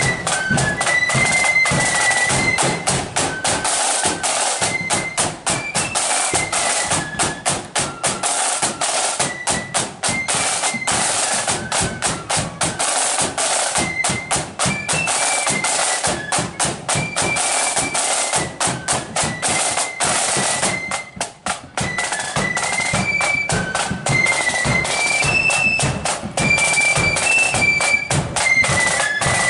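Marching flute band playing a march: massed flutes carry a high melody over rapid snare-drum rolls and bass-drum beats. The drumming drops out briefly about two-thirds of the way through.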